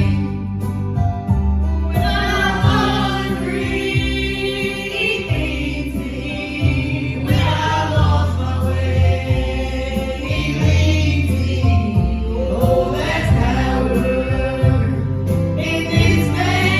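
Gospel song sung by several voices over instrumental accompaniment, with a bass line of held low notes under the sung phrases.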